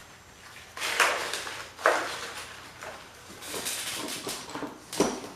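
Workbench handling noises: a few short knocks and scrapes, a longer rustle, and a sharp click near the end, as tools and motor parts are picked up and set down while the new rear bearing is readied.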